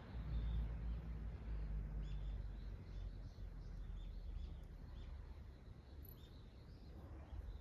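Small birds chirping: many short, high calls in quick succession from about two seconds in, over a steady low rumble.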